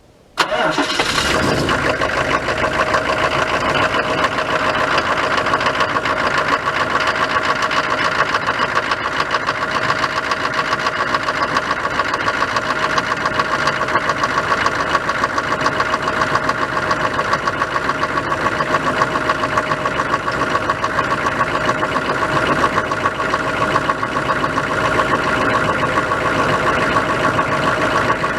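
1998 Chevrolet K1500's 6.5-litre turbodiesel V8 cold-starting at −15 °C. It catches about half a second in, then runs steadily at a cold idle with a rapid, even pulse.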